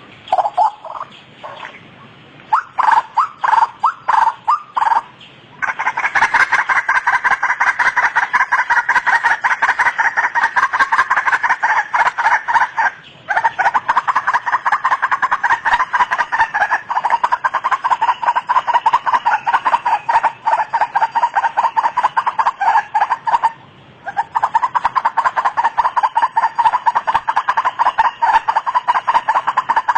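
White-breasted waterhen (ruak-ruak) calling: a few separate calls over the first five seconds, then a fast, unbroken run of repeated notes, twice broken by a brief pause.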